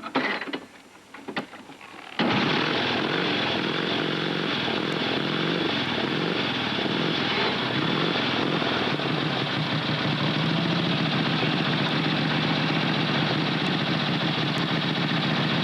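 1947 Indian Chief's side-valve V-twin engine being started: it catches suddenly about two seconds in and runs, settling into a steady idle partway through.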